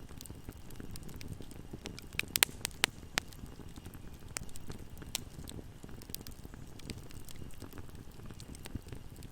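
Wood fire crackling in a fireplace: a steady low rumble of flames with scattered sharp pops and snaps, and a cluster of louder pops about two to three seconds in.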